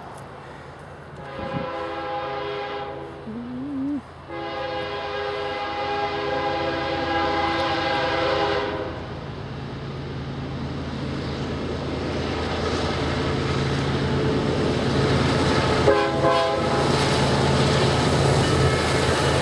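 Canadian Pacific freight locomotive sounding its multi-chime horn, one blast of about two seconds and then a longer one of about four seconds. The diesel engine and the rolling train then grow steadily louder as it approaches, with one more short horn note about 16 seconds in.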